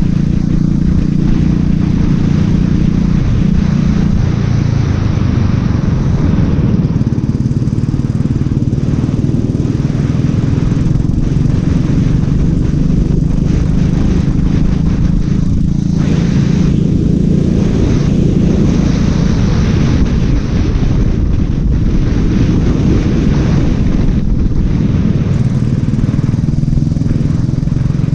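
Racing kart's engine running loud and close, its pitch shifting slightly as the throttle changes.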